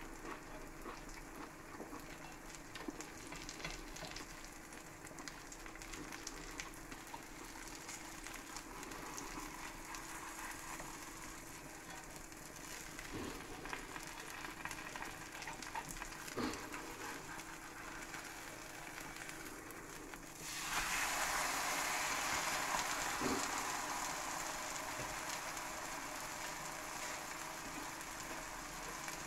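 Grated cheese frying in a pan: the melted fat gives a steady crackling sizzle, with a few light knocks of a metal spatula against the pan. About two-thirds of the way through, the sizzle suddenly gets louder and stays louder.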